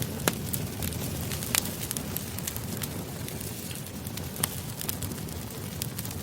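Campfire burning: a steady low rush of flame with irregular sharp pops and crackles scattered through it.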